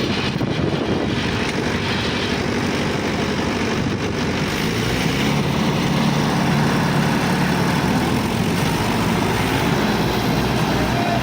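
Diesel tractor engines running hard under heavy load in a tug-of-war pull. The engine note rises and grows louder about five seconds in.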